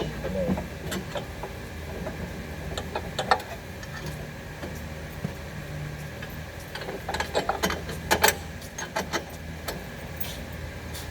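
Scattered metallic clicks and knocks from repair work on the car, bunched together about seven to eight and a half seconds in, over a steady low workshop hum.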